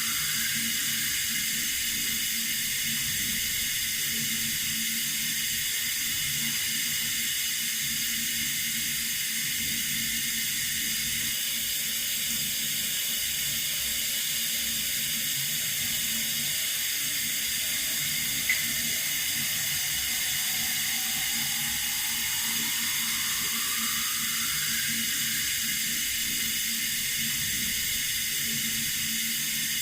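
Water running steadily from a tap, an even hiss. A single brief click sounds a little past halfway.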